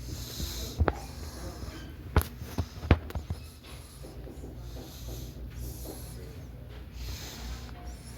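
Three sharp knocks about a second apart over a steady low rumble.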